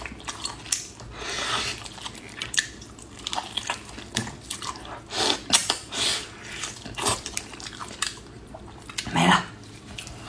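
A person chewing and biting food close to the microphone: wet, irregular mouth clicks and smacks, with a louder burst about nine seconds in.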